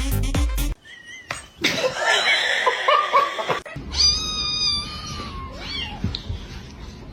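Cat meowing, with one long drawn-out meow about four seconds in that falls slightly in pitch. A snatch of music cuts off under a second in.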